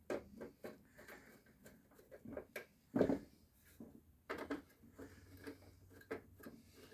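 Irregular clicks, taps and knocks of hand work on a heater box while the blower motor is fitted and screwed in, with one louder knock about three seconds in.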